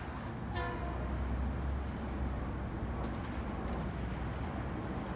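Low, steady rumble of an approaching Metro-North M8 electric multiple-unit train, with a short high tone about half a second in.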